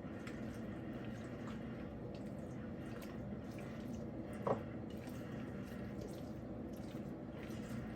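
Oily, sauce-coated chicken thighs and potatoes being mixed together in a bowl: soft wet squishing and dripping, with one brief louder sound about halfway through.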